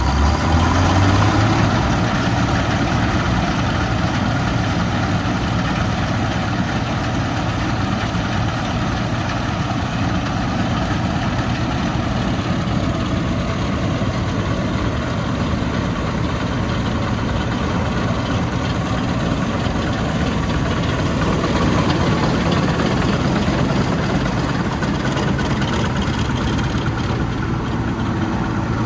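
Heavy farm-machine engine running steadily, with a continuous low hum.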